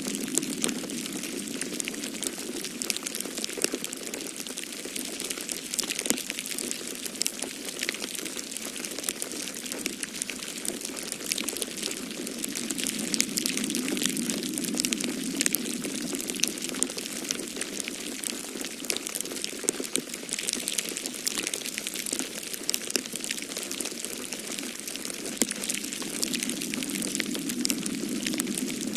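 Wood fire in a fireplace crackling with frequent small pops and snaps, over a steady low whoosh of storm wind that swells and eases every few seconds.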